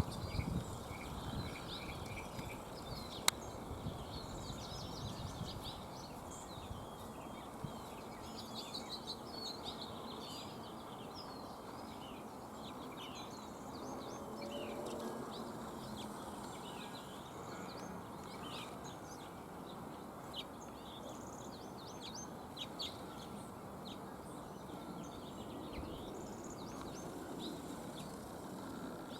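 Small birds chirping and twittering in many short, high calls over a steady background of outdoor noise, with a single sharp click about three seconds in.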